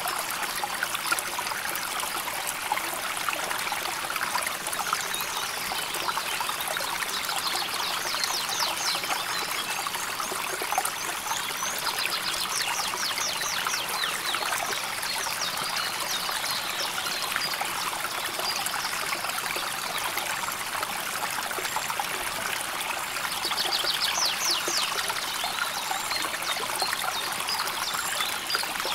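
A river flowing calmly, with a steady trickling, babbling rush of water.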